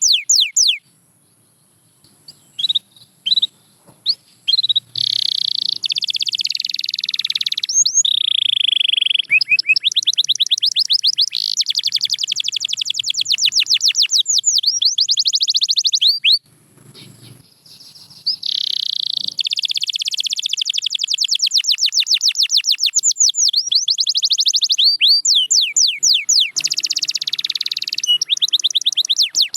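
Domestic canary singing: long, fast trills of rapidly repeated high notes, about ten a second, broken by short pauses about a second in and again just past the middle.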